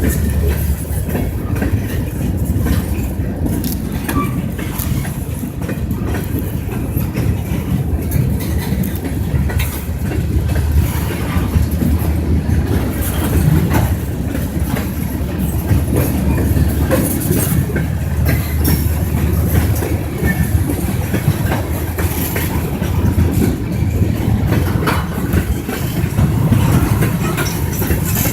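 Train running past on the rails: a steady, heavy low rumble with scattered wheel clicks.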